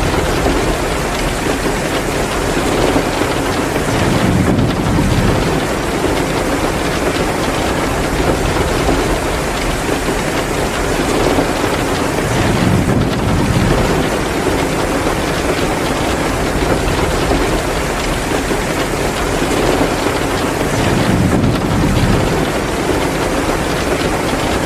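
Heavy rain pouring steadily. A low rumble swells up three times, about eight seconds apart.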